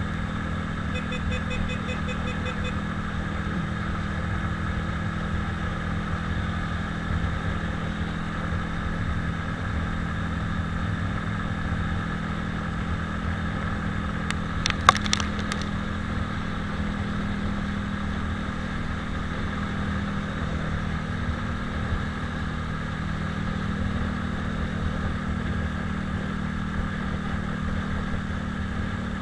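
Italika 250Z motorcycle engine running at a steady pace while riding, with a constant rush of wind and road noise. A single sharp click comes about halfway through.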